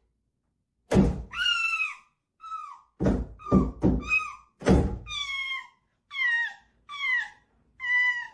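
About ten short, high-pitched squeaky calls in a row, each falling in pitch. Dull thumps land with several of them in the first half.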